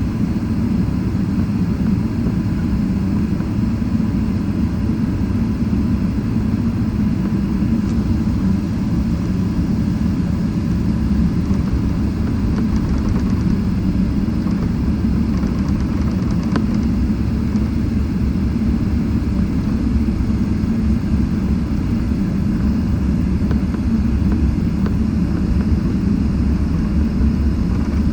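Steady low rumble of a Boeing 777-300ER's GE90 engines running on the ground, heard inside the cabin, with a faint steady whine above it.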